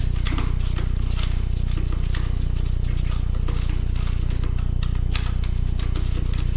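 Small, irregular clicks and scrapes of a laptop's metal and plastic parts being handled and pried during disassembly, over a steady low hum.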